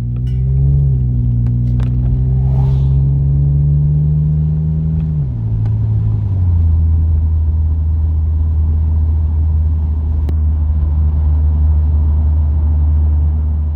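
BMW E36 328i straight-six engine heard through a MagnaFlow muffler while driving: it pulls steadily with its pitch slowly rising, then the revs fall about five seconds in and it settles into a steady, lower cruise note. Heard from inside the car.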